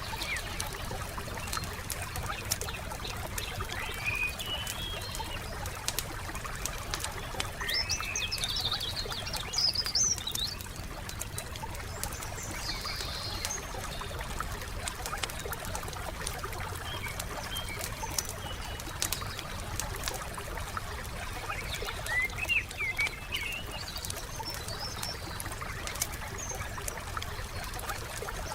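Wood fire crackling with scattered small pops over a steady hiss, while small birds sing in short chirping phrases every few seconds, loudest about eight to ten seconds in and again a little after twenty seconds.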